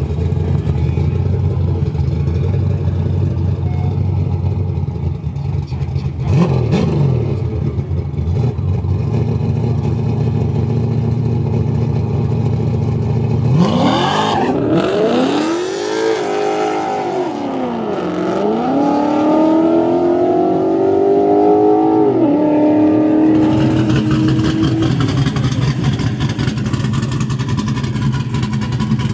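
Drag race car engines running loudly at the start line, with a short rev about six seconds in. About halfway, a car launches and accelerates hard: its engine pitch climbs, drops at a gear shift, climbs again and then holds high.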